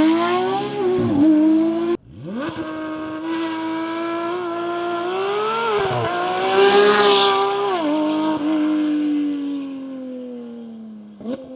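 Porsche 992 GT3 RS naturally aspirated 4.0-litre flat-six running at high revs through a full titanium exhaust with an X-pipe: a high-pitched scream that rises and falls in pitch. It cuts off abruptly about two seconds in, comes back, and sinks slowly in pitch near the end.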